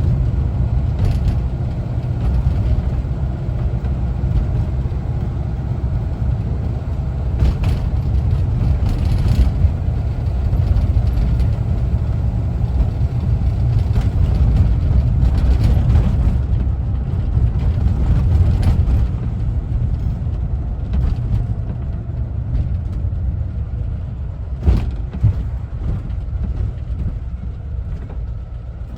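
1974 Volkswagen Westfalia camper's air-cooled Type 4 flat-four engine and drivetrain running steadily while driving, a heavy low rumble. A few sharp rattles or knocks come through at scattered moments.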